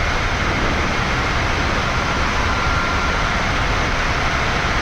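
Steady rush of airflow and engine noise in a Boeing 787-9 flight deck during the climb after takeoff, with a faint steady high tone above it.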